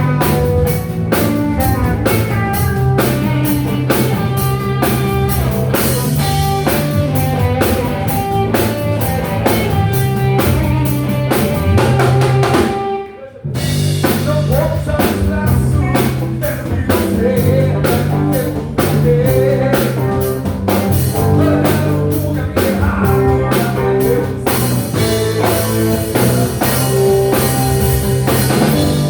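Live rock band playing an instrumental passage: drum kit with a steady beat, bass and electric guitar. Shortly before the middle the whole band stops dead for about half a second, then comes back in together.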